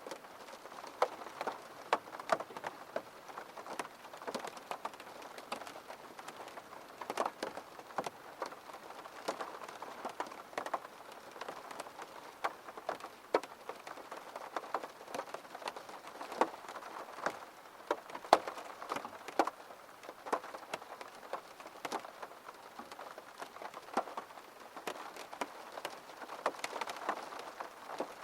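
Steady rain, with many separate drops ticking sharply onto a hard surface close by over a soft, even hiss.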